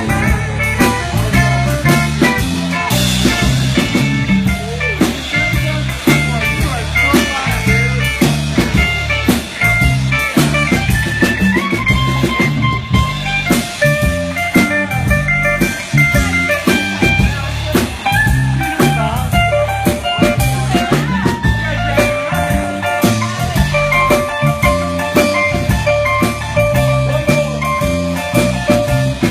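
A blues band playing an instrumental passage, with guitar over a steady drum-kit beat and long held guitar notes.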